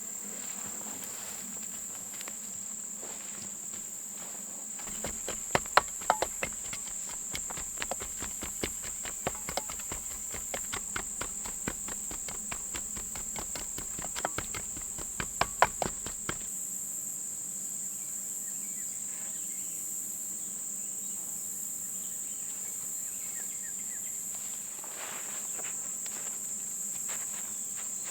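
Steady high-pitched insect chorus in the woods. From about five seconds in until about sixteen seconds, a run of irregular knocks and clicks, several of them sharp and loud, from work at the campsite.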